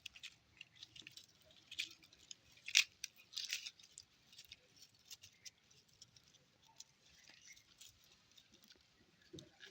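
Puppies scuffling about: irregular light scratching and pattering, with the louder scuffs about two, three and three and a half seconds in.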